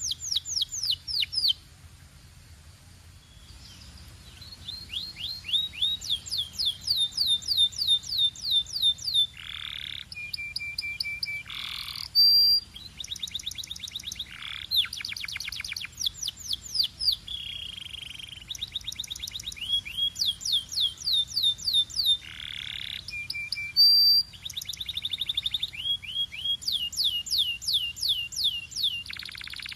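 Domestic canary singing: a long song of fast trills, each made of rapidly repeated falling notes, switching to a new trill every few seconds, with short steady whistled notes and a few harsh rasping notes between them. The song pauses briefly about two seconds in, then picks up again.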